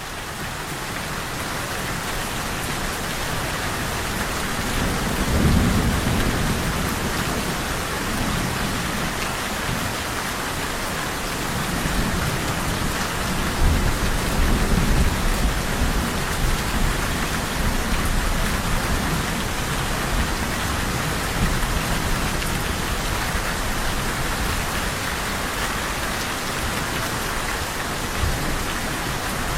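Steady heavy rain falling, with low rolls of thunder rumbling in about five seconds in and again about halfway through.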